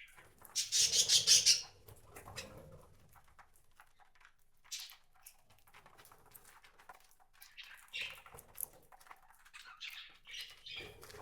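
Wild birds at a feeder: a loud, fast flutter of wings lasting about a second near the start, then small scattered pecking clicks and short chirps.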